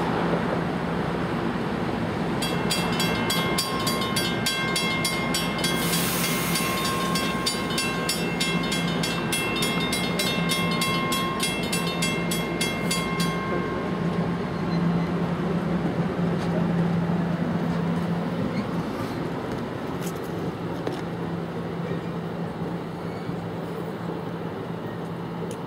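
NJ Transit commuter train pulling out of the station with a steady hum that fades as it moves away. A level-crossing warning bell rings rapidly for roughly the first half, then stops.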